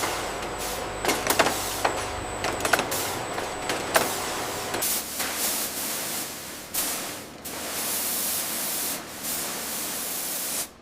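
Factory machinery: sharp mechanical clacks over a steady noisy hum for about the first five seconds, then a steady hiss, like air being let out, for most of the rest.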